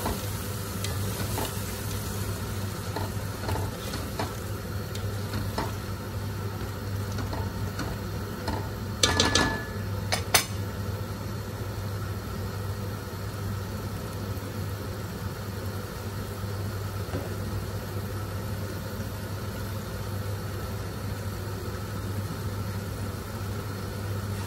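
Tomato, yogurt and spice masala sizzling steadily as it fries in oil in a pot on a gas hob, the bhuna stage of the curry, over a constant low hum. A short clatter of a utensil against the pot comes about nine to ten seconds in.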